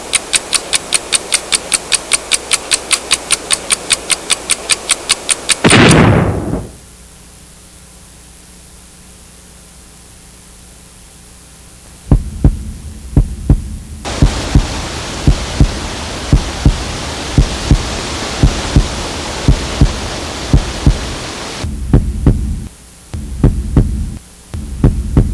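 Film soundtrack effects: a fast, even ticking about four or five times a second, cut off about six seconds in by a loud falling swoop. A low steady hum follows, and about halfway through irregular deep heartbeat-like thumps begin over a hiss that starts and stops abruptly.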